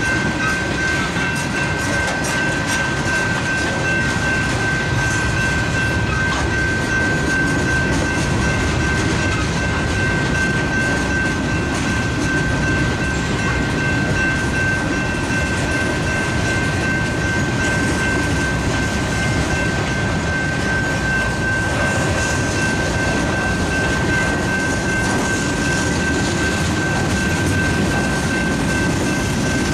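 Freight train of tank cars and covered hopper cars rolling steadily past a grade crossing: a continuous rumble of wheels on rail, with a steady high-pitched tone ringing over it.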